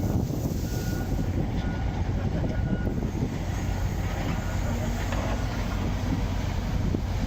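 Crawler excavator's diesel engine running steadily, a low continuous rumble.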